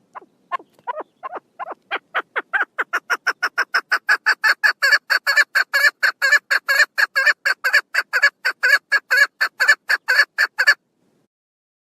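Female chukar partridge calling: a long series of short, harsh notes that start slow and soft, quicken and grow louder to about five a second, then stop abruptly near the end.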